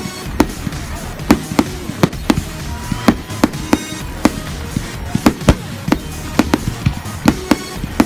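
Fireworks going off in a rapid, irregular series of sharp bangs, a few a second, with music playing underneath.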